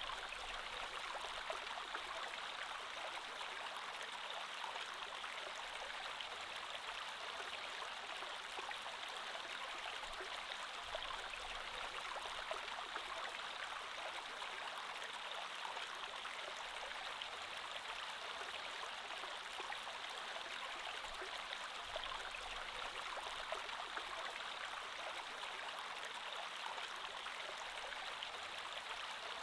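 Creek water flowing steadily: a continuous, even rush of water with no breaks or changes.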